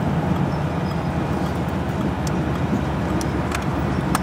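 Ford Model A street rod's hot-rod engine running steadily as the coupe drives along a street, heard from inside the cab, with a few faint ticks.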